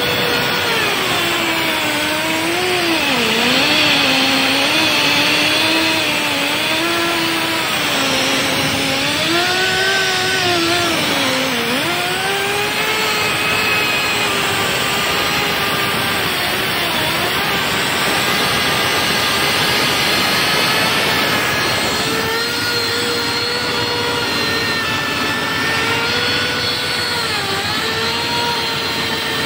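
Portable in-situ crankpin grinding machine grinding a crankpin of a Daihatsu 6DC-17 crankshaft: a steady motor whine whose pitch repeatedly sags and recovers as the wheel loads up against the pin.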